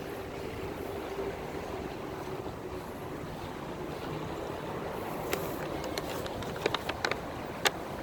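Wind and water ambience on a windy waterfront, with a faint steady hum. Several sharp clicks or knocks come in a run during the last few seconds.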